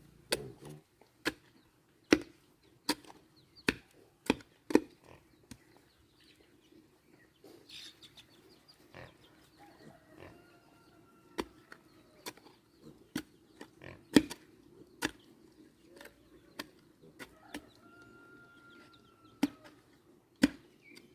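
Repeated sharp knocks of a tool striking wood or bamboo, irregular, about one every half-second to a second. Two drawn-out farm-animal calls come in about halfway through and again near the end.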